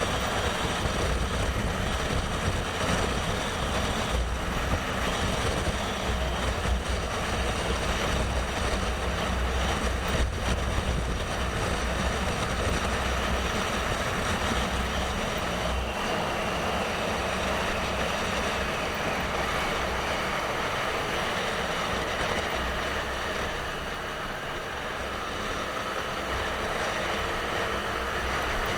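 A motorcycle on the move: a steady low engine rumble under a wide rush of wind and road noise, easing off briefly about three-quarters of the way through.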